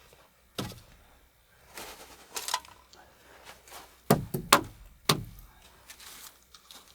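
Several sharp knocks, loudest in a quick cluster of three a little past the middle, with short scraping rubs between them, like wood being handled and knocked during hand work.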